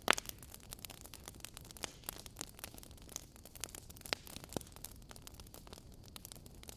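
Wood fire in a fireplace crackling, with irregular sharp pops over a soft steady hiss. The loudest pop comes right at the start, and two more stand out a little past four seconds in.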